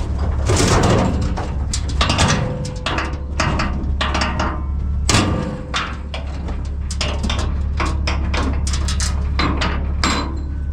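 Repeated metal knocks and clanks from a livestock trailer, irregular and sharp, over a steady low hum.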